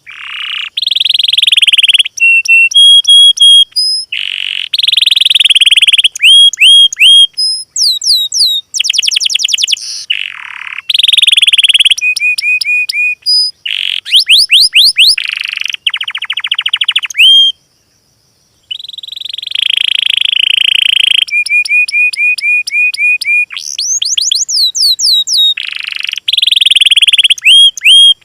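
Small songbirds singing in fast, buzzy trills and rapidly repeated high chip notes and upslurred whistles. The phrases start and stop abruptly, as in a spliced birdsong training track, with a silent gap of about a second past the middle.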